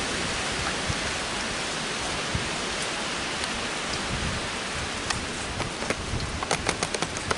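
Heavy rain falling steadily in a windy storm. Near the end, a quick run of sharp ticks.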